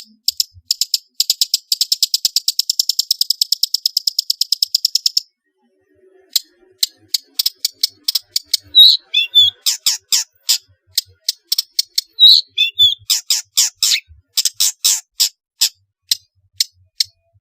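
Long-tailed shrike (pentet) singing: a fast rattling trill of sharp, high notes for about five seconds, then after a short pause an irregular chatter of sharp notes with two quick swooping calls.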